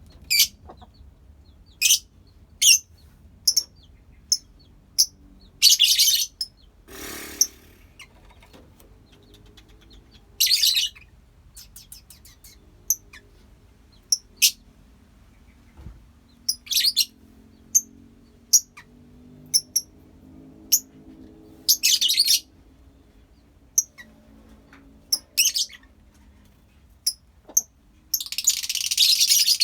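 Lovebirds in a colony giving sharp, high-pitched chirps, singly with gaps of a second or so, a few drawn out into short runs; near the end they break into a dense burst of chattering together.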